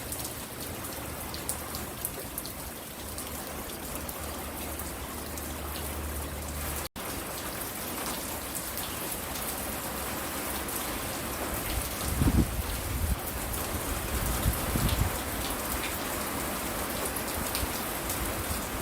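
Steady rain falling, with scattered drop ticks over an even hiss. The sound cuts out for an instant about seven seconds in, and a few low thumps come in the second half.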